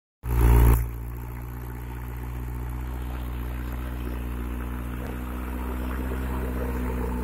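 Mahindra 415 DI tractor's four-cylinder diesel engine running steadily at a constant speed, after a short loud burst of noise in the first second.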